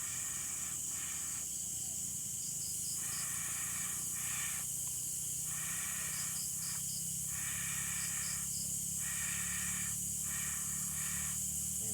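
Night insect chorus: a constant high-pitched hiss, with a buzzing insect call that switches on and off every second or so and short triple chirps a few times. A low steady hum runs underneath.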